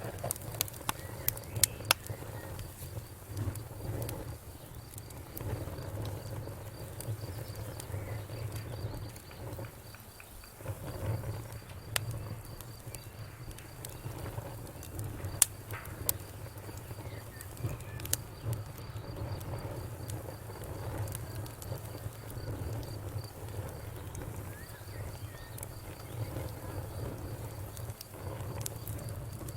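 Wood fire crackling: irregular sharp pops and snaps over a low, steady rumble, with one louder pop about halfway through.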